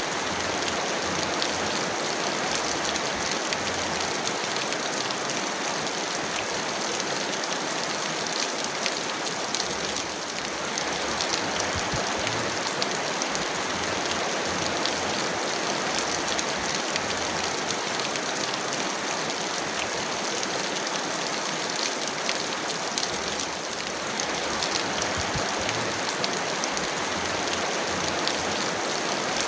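Heavy rain falling steadily, a dense even hiss of water with many small drop impacts pattering through it, easing very slightly twice.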